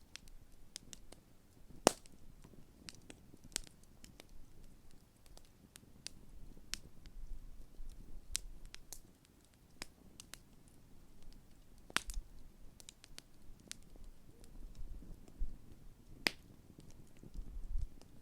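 Large wood campfire crackling, with irregular sharp pops of burning wood. Three louder cracks come about 2, 12 and 16 seconds in, over a soft low rumble.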